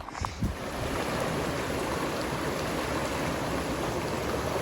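A steady rushing of running water.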